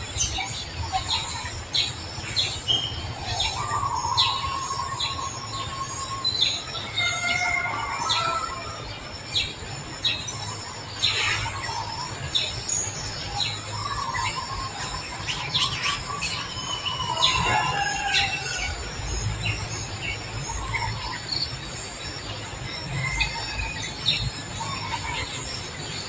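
Birds chirping and calling in short, scattered notes, some sliding in pitch, over a steady high-pitched drone.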